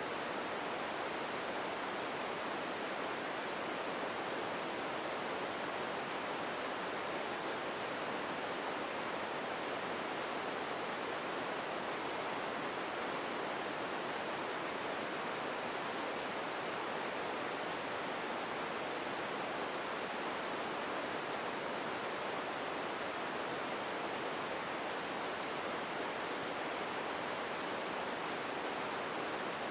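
Steady, even hiss of empty ambience noise, a featureless background noise bed that stays unchanged throughout.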